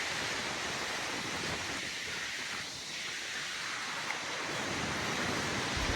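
Steady rushing hiss of a severe thunderstorm's wind and rain, easing slightly for a moment in the middle.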